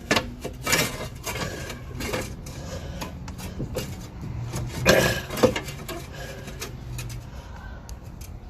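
Metal clinks and knocks of hub bearing parts and tools being handled, with a louder pair of clunks about five seconds in.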